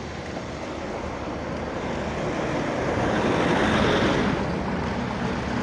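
Wind rushing over the microphone while cycling along a road, with road noise beneath it. It swells louder about three to four seconds in, then stops abruptly.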